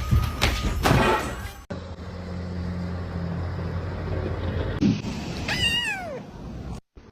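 A cat meows once, a single call falling in pitch about five and a half seconds in. Before it come a few loud knocks and clatter in the first second and a half, then a steady low hum.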